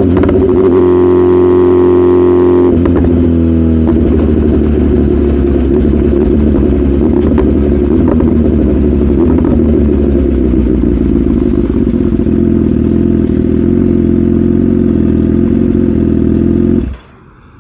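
BMW S1000RR inline-four engine running under way. Its pitch falls about three seconds in, holds steady for a long stretch, then the sound cuts off abruptly near the end.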